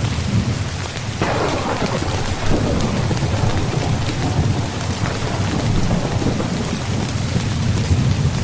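Steady rain drumming on a tent, with a peal of thunder breaking about a second in and rolling away over the next several seconds, over a constant low rumble.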